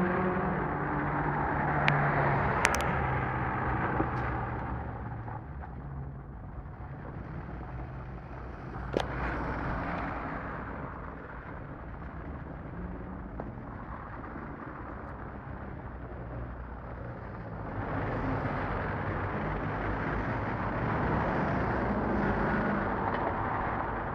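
Car engine running at low road speed in street traffic, a steady low engine note that fades after the first few seconds and swells again for several seconds near the end, with a few sharp clicks.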